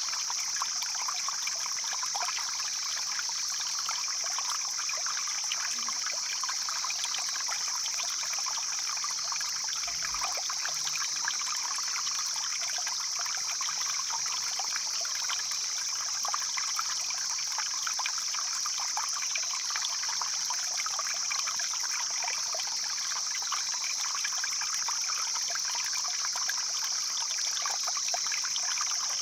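Stream flowing: a steady, unbroken rush of water.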